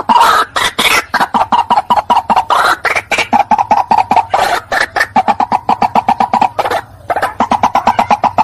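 White-breasted waterhen calling, as used for a lure call: a few harsh, loud croaks open it, then a fast run of short repeated notes, several a second, that briefly falters near the end before carrying on.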